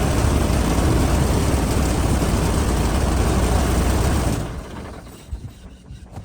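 Dongfeng heavy truck's engine running with a loud, steady low rumble, which stops abruptly about four seconds in, leaving only faint background knocks.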